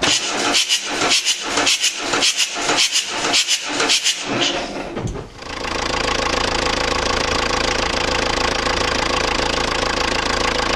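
Renault Kangoo 1.9 diesel engine being cranked by the starter, about three strokes a second, catching about five seconds in and then running steadily. The engine's abnormal noise persists; its cause turns out to be a timing belt that has jumped a couple of teeth.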